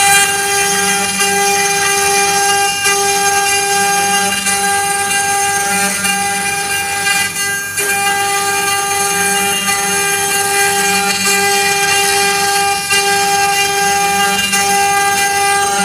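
CNC 3040 router's spindle whining steadily while milling 6082 aluminium, with a lower tone that switches on and off every couple of seconds.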